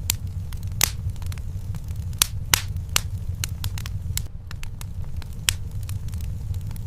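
Wood fire burning in a fireplace, crackling with sharp pops at irregular intervals over a steady low rumble.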